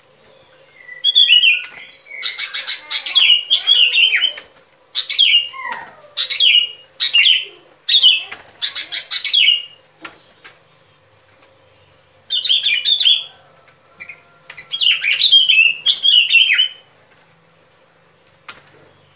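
Bulbul (bông lau) song: repeated bright, bubbly chirping phrases in two bouts with a pause of about two seconds between them. This is a recorded lure call used to draw bulbuls to a trap.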